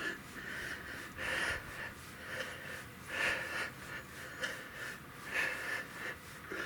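A man breathing hard while pedalling an exercise bike, with a short puff of breath about once a second.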